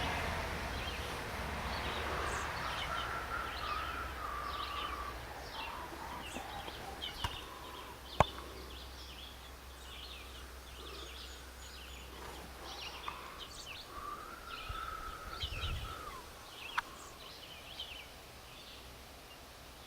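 Small songbirds chirping, with many short high chirps throughout. Two sharp clicks can be heard, the louder one about eight seconds in.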